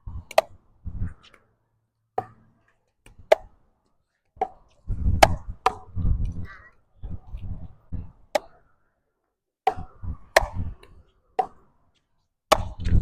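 Sharp pops of a pickleball rally, paddle hits and ball bounces, about a dozen spread irregularly through the stretch. Gusts of wind buffet the microphone as a low rumble in between, heaviest about five to seven seconds in.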